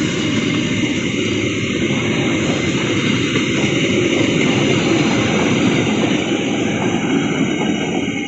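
A train running past close by: a loud, steady rumble of wheels on rail that begins to die away at the very end.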